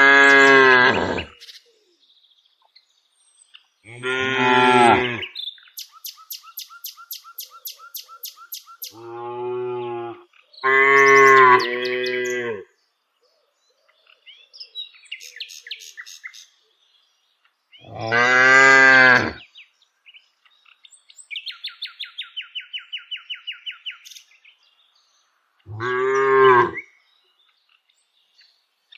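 Cows mooing, about six long moos spread through, one of them a double call. Between the moos a bird chirps in quick repeated runs.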